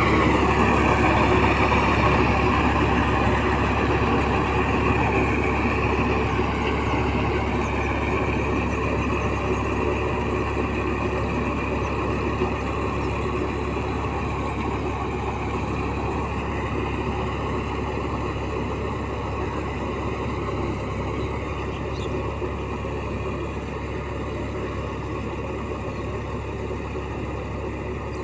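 Massey Ferguson 9000 diesel tractor engine running steadily under load while puddling a muddy field, its sound slowly fading over the stretch.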